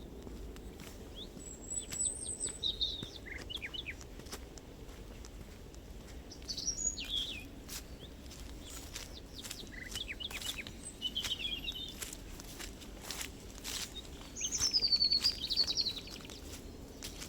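Small songbirds singing in short, high, chirping phrases, four in turn, the loudest near the end, over scattered clicks of footsteps on the forest path.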